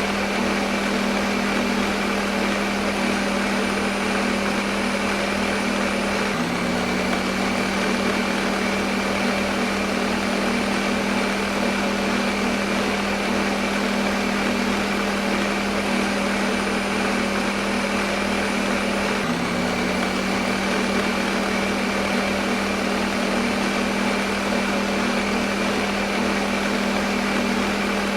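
Electric kitchen blender motor running continuously: a steady whirring with a constant hum. Twice, about 6 and 19 seconds in, the hum briefly dips in pitch and comes back up.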